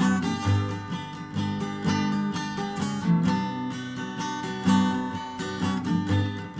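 Acoustic guitar strumming chords in a steady rhythm, as instrumental background music.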